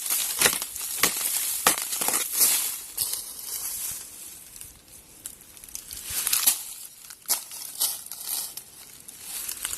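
Dry leaf litter crunching and crackling irregularly, as it is trodden on and stirred. A few louder crackles come in clusters, with a quieter stretch near the middle.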